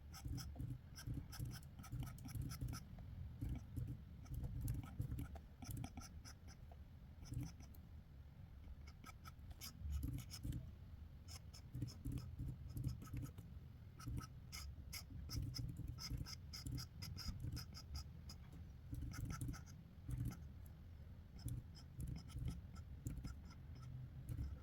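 Sketching on paper: a drawing tool scratching in quick clusters of short strokes, pausing and starting again, with soft low rubbing underneath.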